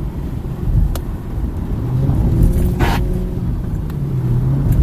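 Car engine and road rumble heard from inside the moving car, the engine note rising and falling as it accelerates from about two seconds in. A click about a second in and a short hiss near three seconds.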